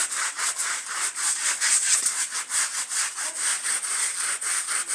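Stiff brush scrubbing a wet, soapy carpet by hand in quick, even back-and-forth strokes, about five a second.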